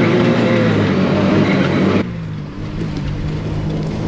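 Truck running on the road, its engine a steady hum under loud road and wind rush. About halfway through it changes abruptly to a quieter, lower engine sound with much less hiss.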